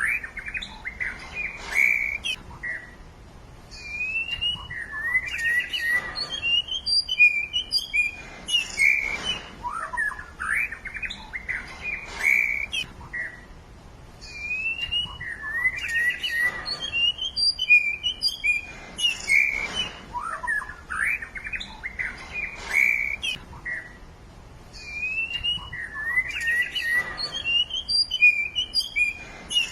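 Wild songbirds chirping and whistling busily, with quick trills and rising and falling phrases. Short lulls come about every eleven seconds, after which the same run of phrases seems to start again.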